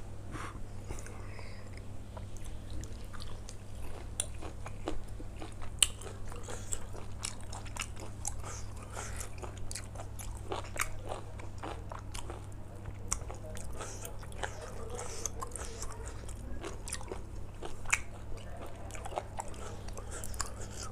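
A person chewing and biting food close to the microphone, with irregular crunchy bites, over a steady low hum.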